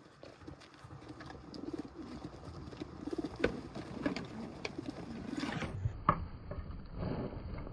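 A group of racing pigeons cooing, low repeated calls, with scattered sharp clicks and knocks among them.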